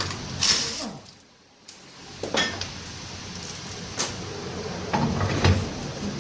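Brake-job workshop sounds: a short hiss, then scattered metallic clinks and knocks of tools and brake parts being handled.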